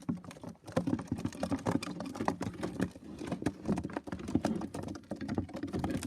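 Pigeons' feet tapping and scrabbling on the loft: a dense, irregular run of small taps and clicks.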